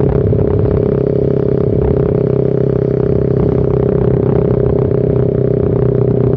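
Suzuki Satria FU Fi's single-cylinder engine running through a short aftermarket Pro Liner muffler with its dB killer removed, held at a steady pitch while riding.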